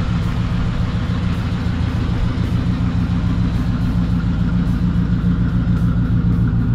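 The 1956 Chevrolet Bel Air's engine idling steadily through its dual exhaust, at an even, unchanging pitch.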